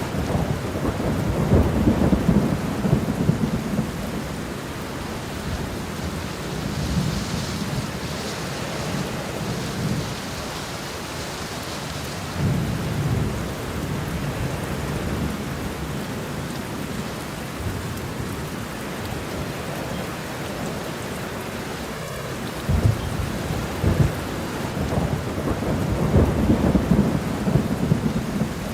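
Steady rain with low rolling thunder swelling and fading several times, the rumbles strongest near the start and again in the last few seconds.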